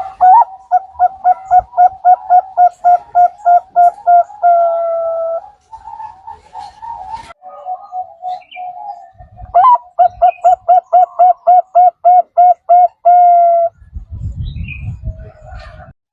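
Zebra dove (perkutut) cooing: a fast run of short staccato notes, about four a second, ending in a longer drawn-out note, then softer cooing, then a second such run. A low rumble comes near the end.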